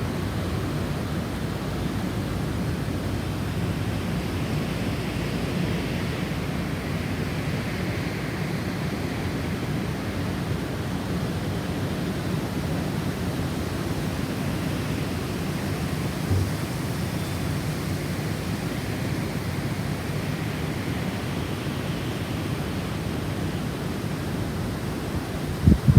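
Gusty snowstorm wind: a steady low rush with slow gusts swelling up and dying away. A brief low thump comes about sixteen seconds in and another near the end.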